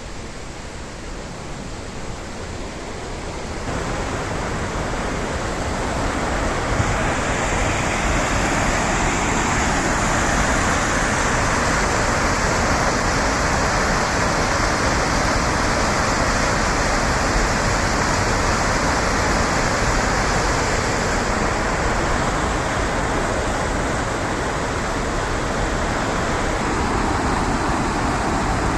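Mountain river rushing steadily, swelling louder over the first several seconds and then holding. A faint steady hum comes in near the end.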